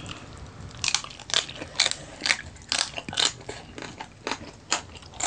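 Person chewing crisp roast pig (lechon) close to the microphone, a sharp crunch about twice a second from about a second in.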